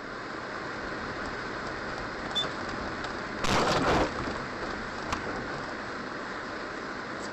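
Steady road and engine noise of a car as picked up by a dashcam. Midway there is a louder burst of noise for about half a second, and a couple of faint clicks.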